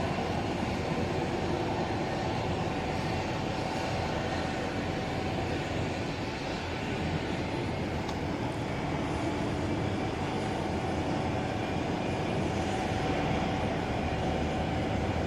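Jet airliner engines running steadily, with a faint held whine over a broad rumble.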